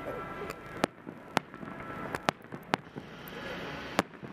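Aerial firework shells bursting overhead: about five sharp bangs in four seconds, loudest a little under a second in and again near the end.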